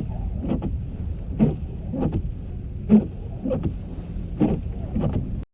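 Steady low rumble of a car driving, heard inside the cabin, with a regular rhythm of short sweeping sounds, about two every second and a half, typical of windshield wipers clearing snow.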